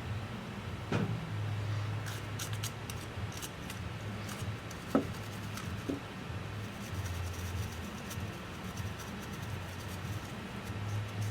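Small clicks and light scratching of hand tools working on an opened laptop, a few sharp clicks about a second in and again around five and six seconds, over a steady low hum.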